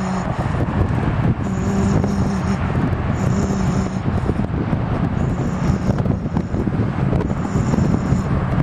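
Freight train of boxcars and double-stack cars rolling past at a distance, a steady rumble mixed with wind buffeting the microphone. A low hum with a hiss above it comes and goes every couple of seconds.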